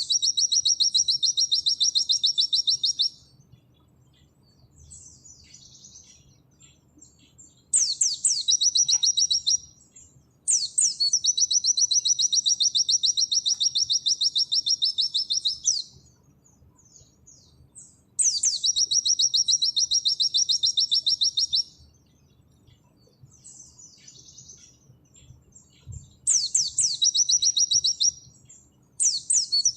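White-eye (pleci) singing in the rapid 'nembak' style: long, fast, high-pitched trills of a few seconds each, six times, with short gaps of soft chirps between them.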